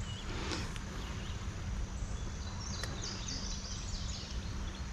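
Outdoor creek ambience: a steady low rumble of background noise, with a bird singing a quick series of short, high, repeated notes from about halfway through to near the end.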